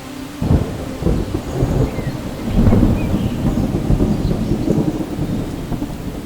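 Thunder rumbling over steady rain: a sudden clap about half a second in, then a long rolling rumble that swells loudest around three seconds in.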